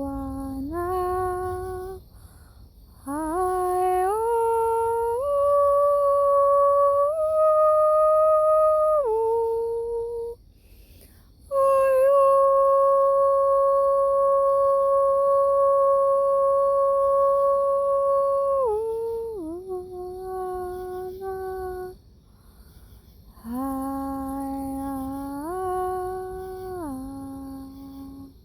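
A woman humming wordless long notes as light-language toning, each note stepping up or sliding down in pitch, with short breaks for breath. One note near the middle is held for about six seconds.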